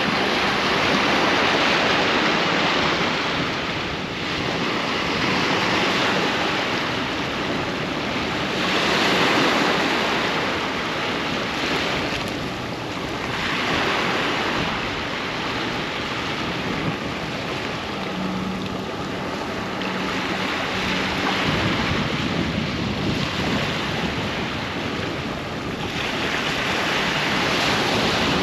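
Ocean surf on a beach: waves breaking and washing in as a continuous rushing wash that swells and eases every few seconds.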